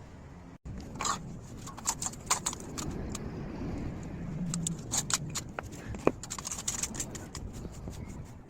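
Handling of metal: a run of sharp clinks, knocks and scrapes over a steady low hum, starting abruptly about half a second in.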